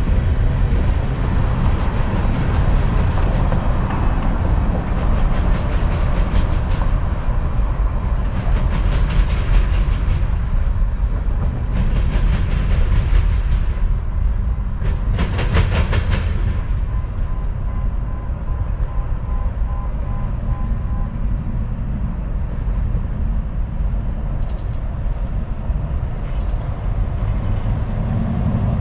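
CSX unit coal train's hopper cars rolling past with a steady heavy rumble, the wheels clattering over the rail joints in bursts of rapid clicks every few seconds. The clatter grows fainter near the end.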